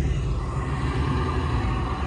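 A car engine running at low revs: a steady low rumble with a faint whine above it.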